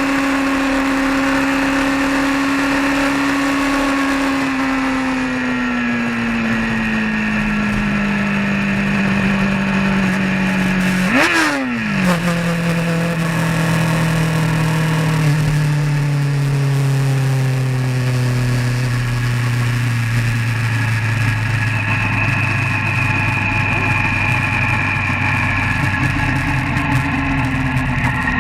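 Vehicle engine running under way on the road. The revs drop gradually as it slows, rise and fall in a quick blip of throttle about eleven seconds in, then ease lower and settle to a steady, lower engine note.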